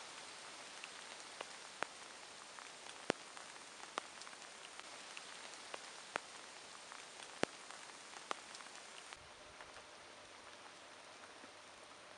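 Steady rain falling, an even hiss with single heavier drops landing close by in sharp separate taps every second or so. The hiss eases slightly about nine seconds in.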